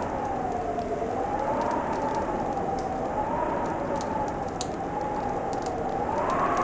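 Fireplace crackling in scattered sharp pops over a steady hiss, beneath a wind howl that slowly rises and falls in pitch, swelling near the end.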